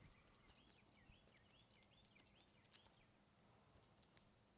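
Near silence, with faint bird chirps repeating for a couple of seconds in the background.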